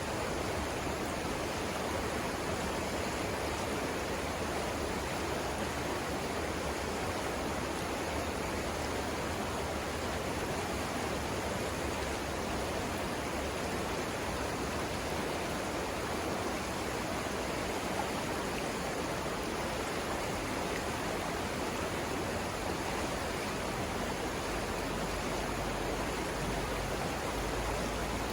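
Savannah River water rushing steadily over the rapids, an even, unbroken rush.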